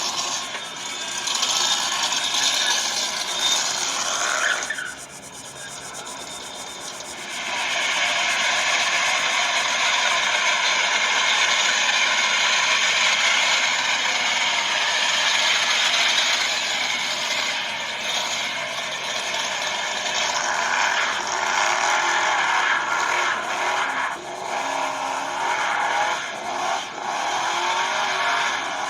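Recorded car sounds, engines running with wavering pitch, used as a soundtrack. The sound drops to a quieter stretch about five seconds in, then comes back up.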